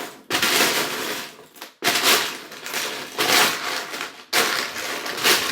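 Loose plastic K'nex pieces rattling and clattering as a hand rummages through them, in three bouts with short breaks about two and four seconds in.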